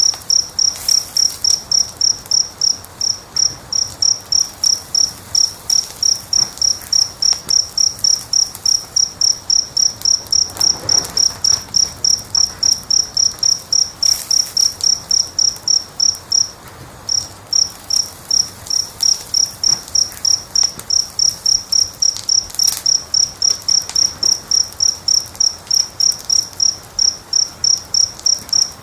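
A cricket chirping steadily at one high pitch, about three chirps a second, with a brief pause about two-thirds of the way through. Beneath it, a wood fire gives a few faint crackles.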